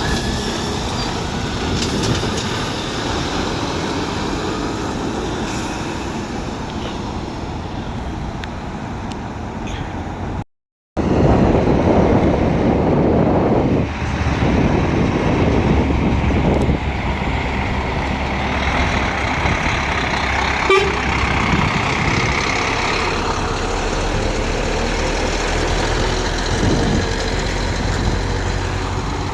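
Heavy lorries and road traffic: a steady engine rumble with traffic noise. The sound cuts out briefly about ten seconds in, and after the cut a heavy engine runs louder and closer.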